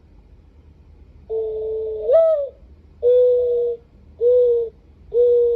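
Recorded mourning dove call played by a bird-song clock: one long coo that lifts in pitch near its end, followed by three shorter, even coos.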